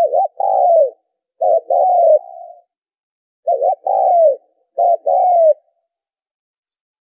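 Spotted dove cooing: four phrases, each a short note and then a longer falling coo. It is a recorded call of the kind played to lure doves to a trap.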